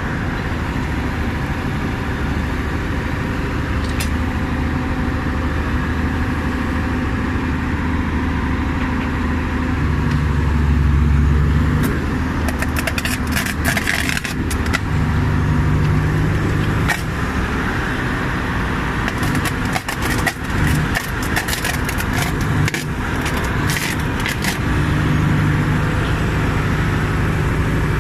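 Electric rail-welding machine at work: a steady engine drone from its power unit, with the low pitch shifting at times and two spells of dense sharp crackling, about 12 and 19 seconds in.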